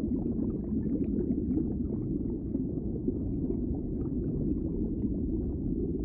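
Underwater ambience: a steady low rumble of moving water with small bubbling pops scattered through it.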